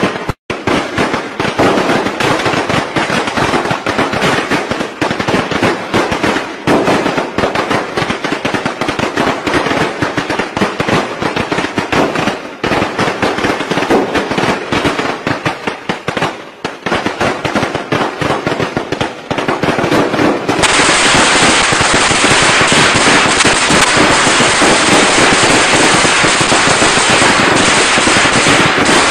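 Traditional Vietnamese Tet firecracker strings going off in a rapid, dense crackle of pops, with brief lulls. About twenty seconds in, it becomes an even denser, unbroken barrage.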